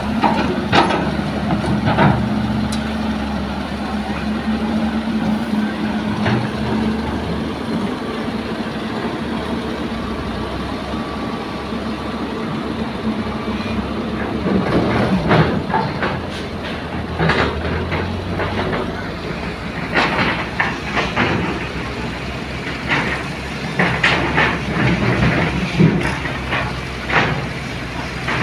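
Heavy diesel machinery running steadily as an excavator loads sand into a dump truck. Repeated clanks and knocks come in clusters, mostly in the second half.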